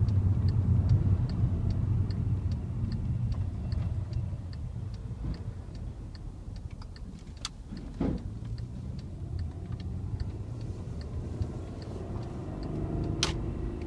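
Volkswagen Passat R36's 3.6-litre VR6 engine running, heard from inside the car, its low drone easing off over the first several seconds as the car slows. The indicator ticks evenly, about two and a half times a second, and there are two sharp clicks, one near the middle and one near the end.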